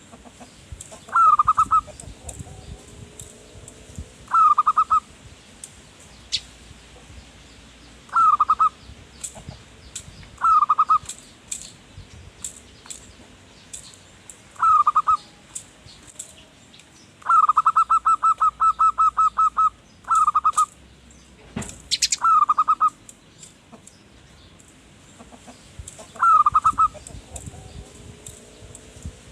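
Zebra dove cooing: short coo phrases every few seconds, with one long run of quick repeated notes about two-thirds of the way in. Faint high chirps of small birds and a single sharp click also sound.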